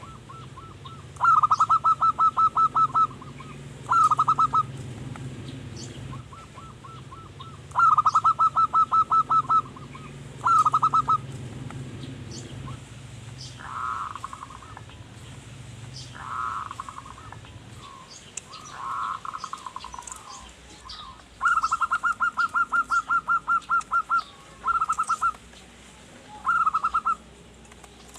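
Zebra dove (perkutut) singing: repeated bursts of rapid, evenly pulsed cooing notes at one steady pitch, each burst lasting about a second or two, with three softer, blurred coos in the middle. Faint high chirps of small birds sound behind it.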